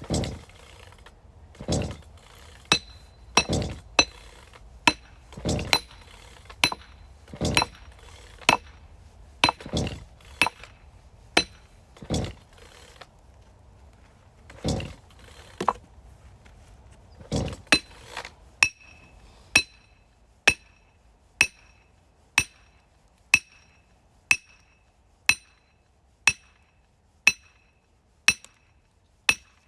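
Repeated hammer blows on metal with a ringing clink. At first they are irregular and heavier, with a dull thud under each; from a little past the middle they settle into a steady beat of about one ringing strike a second.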